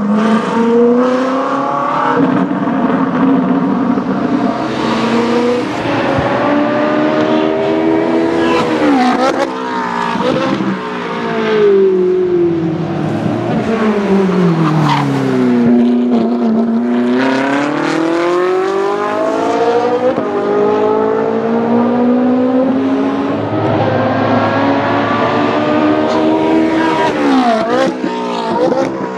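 Ferrari 458 Challenge's straight-piped V8 running loud at racing revs: the pitch climbs through the gears with sharp drops at each upshift, then falls in a long sweep of downshifts and braking about halfway through before climbing again.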